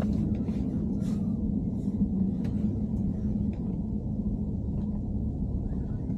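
Inside a BMW E90 3 Series cabin on the move: a steady low drone of engine and road, with scattered short clicks and rattles over it, the abnormal noise being traced.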